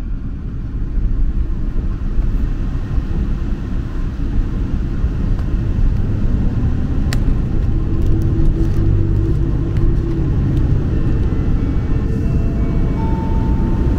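Steady low rumble inside the cabin of a JR Hokkaido 261-series diesel limited-express train, with faint tones stepping up in pitch in the second half. A single light click sounds about seven seconds in.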